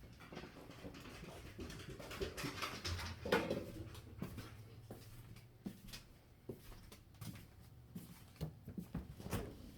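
A dog whimpering softly, loudest about three seconds in, among scattered light clicks and taps.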